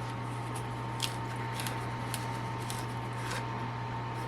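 Faint, irregular small clicks and crinkles of a plastic oil bottle's cap and seal being worked open by hand, over a steady low hum.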